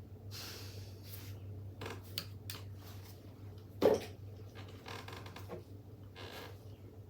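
Workshop handling noises: scattered rustles and small clicks of tools and parts being picked up and moved, with one sharp knock about four seconds in, over a low steady hum.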